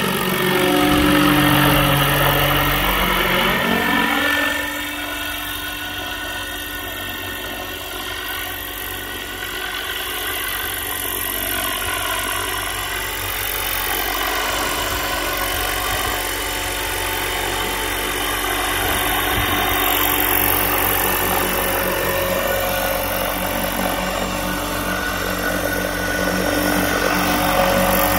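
700-size radio-controlled UH-1 scale helicopter in flight, its rotor and drive whine running steadily. Loudest for the first four seconds, with a falling pitch, then suddenly quieter, slowly growing louder again toward the end.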